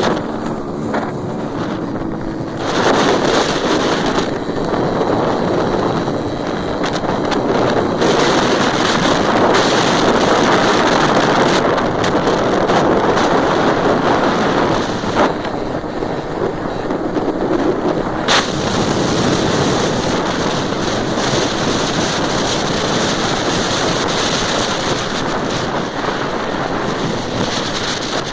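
Wind rushing hard over the microphone of a moving motorcycle, with the engine running underneath.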